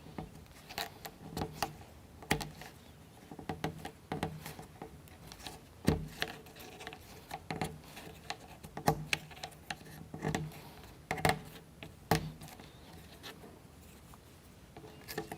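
Light, irregular clicks and taps of small plywood model-kit parts being handled, fitted together and set down on a table.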